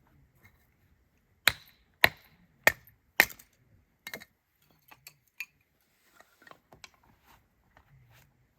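Four sharp chopping strikes on firewood, evenly spaced a little over half a second apart, followed by lighter knocks and clicks of wood being handled.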